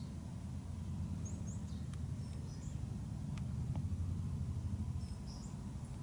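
A few faint, short, high chirps of small birds calling, over a steady low outdoor rumble.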